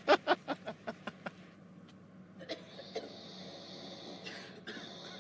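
A short burst of laughter: quick "ha-ha" pulses that fade out within about a second and a half, followed by faint hiss.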